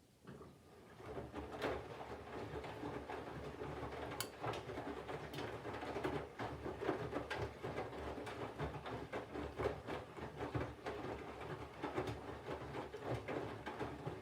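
Candy GVF4 front-loading washing machine drum starting to turn after a pause, with wet laundry tumbling, water sloshing and many soft knocks, during the water-heating stage of the 40° coloureds wash.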